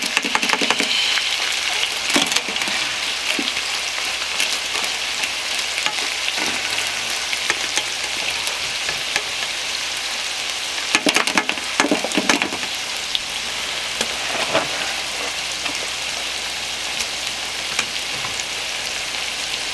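Sausage, diced potatoes, peppers and onions frying in a skillet, a steady sizzle. A few short clatters of a utensil stirring the pan come about two seconds in and again around eleven to twelve seconds.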